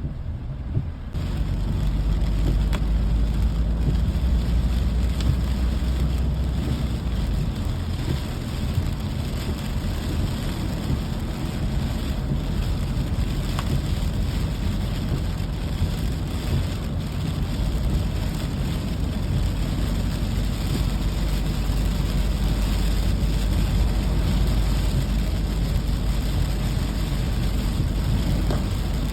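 Steady rain noise over a strong, steady low rumble, both getting louder about a second in.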